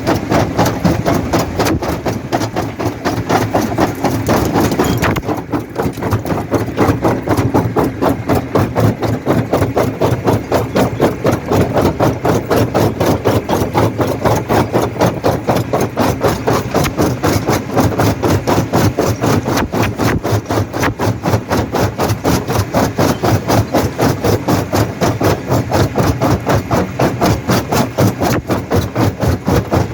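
Jaw rock crusher running, with a steady, rapid rhythmic knocking of about four to five beats a second over a low machine hum.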